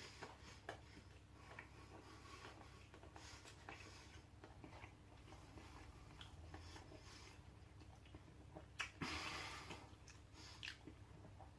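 Near silence with faint mouth clicks from quiet eating, and one short breath-like rush of noise about nine seconds in.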